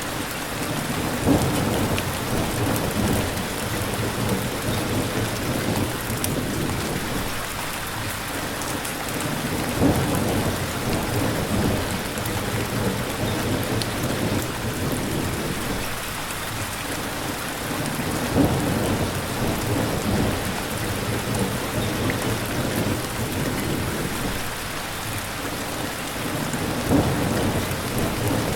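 Steady rain with low thunder rumbling. The rumbles swell up four times, about every eight to nine seconds, and each opens with a short louder peak.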